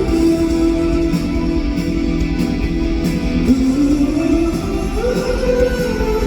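Live rock band playing, with guitar prominent and a melody of long held notes sliding between pitches.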